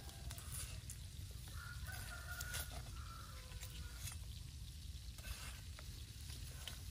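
A rooster crows once, a call of about a second and a half starting about a second and a half in, over faint sizzling from a whole chicken roasting on a spit over charcoal. A few sharp clicks sound through it.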